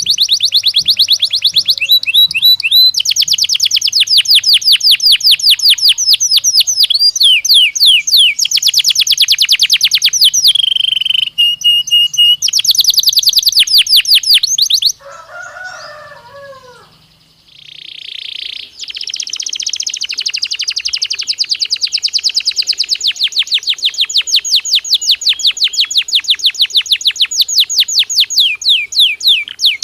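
Belgian canary singing in long, fast trills of rapidly repeated high notes, changing from one roll to the next. About halfway through there is a short break with a few lower, falling notes, then another long trill.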